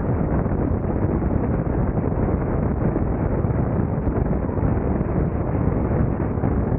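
Strong wind buffeting the microphone of a camera mounted outside a moving car: a loud, steady, fluttering rumble.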